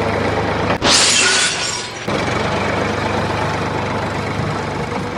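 A small motor running steadily, with a burst of rattling, shattering noise starting about a second in and lasting about a second.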